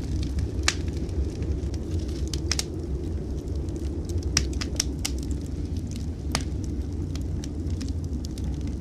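Wood fire in a fireplace crackling, with irregular sharp pops scattered through, over a steady low rumble of blizzard wind.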